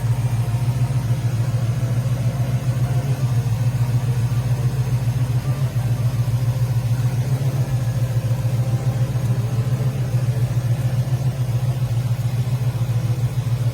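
Chevrolet 355 V8 crate motor of a 1967 Camaro RS idling steadily, its exhaust running through headers and MagnaFlow mufflers, with an even, fast-pulsing low rumble.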